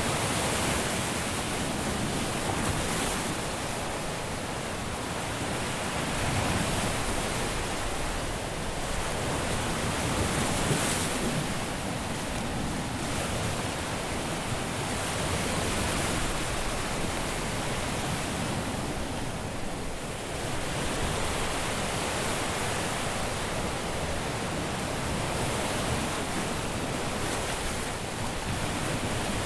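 Caribbean surf washing onto a beach: a continuous wash of breaking waves that swells and eases every few seconds.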